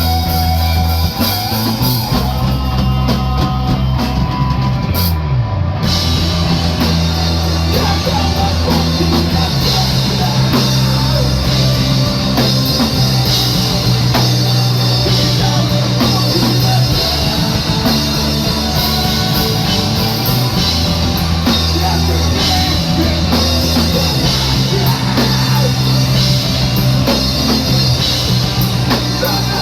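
Rock band playing loud and live, drum kit driving a heavy, metal-leaning song over a stepping bass line. The cymbals and other high sounds cut out for about a second around five seconds in, then come back.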